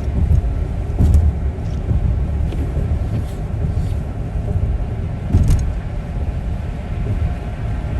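Steady low rumble of a motor vehicle on the road, with a couple of brief knocks, the loudest about five and a half seconds in.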